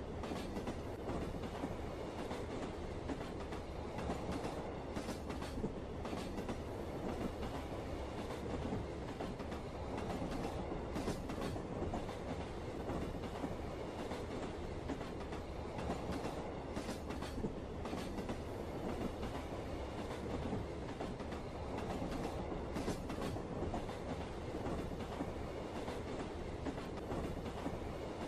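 Train running on rails: a steady rumble with faint clicks now and then from the wheels.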